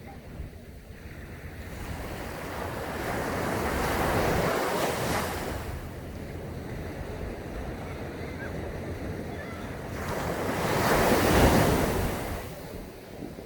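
Sea waves breaking on a sandy beach, the surf swelling and falling twice, the second wave louder, about three-quarters of the way through. Wind on the microphone adds a low rumble.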